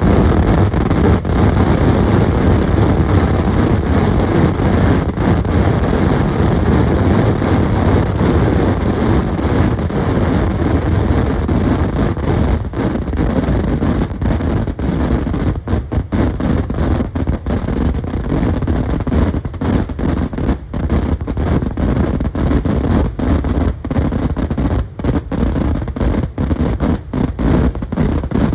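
Kerala temple-festival fireworks (vedikkettu) in their finale, the explosions so dense that they run together into one steady, loud din heavy in the low end, with brief dips throughout.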